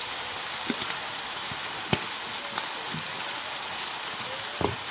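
Papaya shoots frying in a wok, a steady sizzle, with a few light clicks and a knock near the end from the metal spoon and pan.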